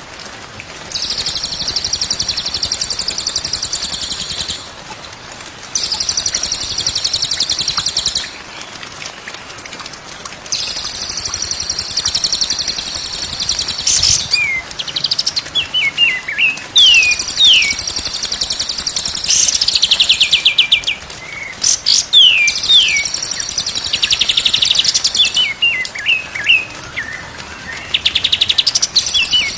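Songbird singing: long, high, rapid trills of a few seconds each separated by short pauses, then from about halfway a run of quick downward-slurred whistled notes mixed with more trilling.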